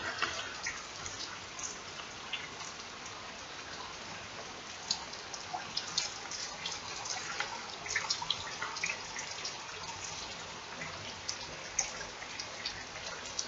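Steady rain falling, an even wash of noise with many scattered close drips and splashes ticking over it.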